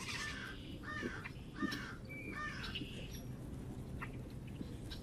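Wild birds calling at a feeder. A run of four harsh, repeated calls, about two a second, fills the first three seconds, followed by scattered short chirps.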